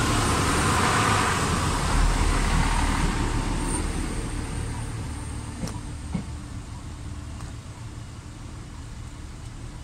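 Irish Rail diesel railcar train passing over the level crossing and moving away, its running noise fading steadily. There are two sharp clicks about six seconds in.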